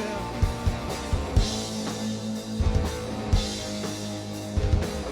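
Live rock band playing an instrumental stretch between sung lines: a drum kit with bass drum hits under held guitar and bass notes.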